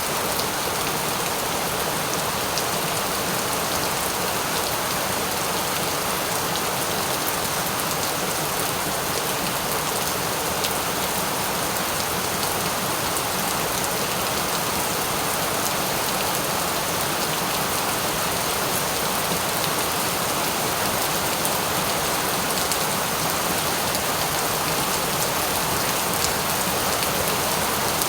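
Steady rain falling and hitting a surface, an even hiss with fine scattered drop ticks.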